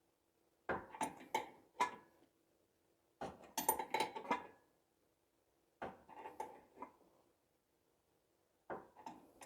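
Metal tools clanking and clinking against steel suspension parts in four short bursts, during work on a stuck ball joint. A faint steady hum sits underneath.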